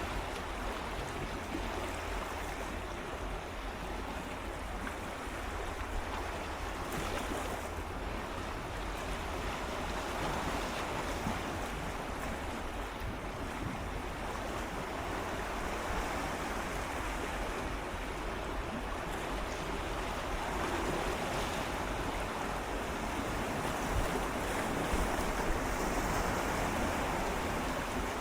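Gentle sea waves swirling and lapping against shoreline rocks: a steady wash of water with slow swells every few seconds, one building up near the end.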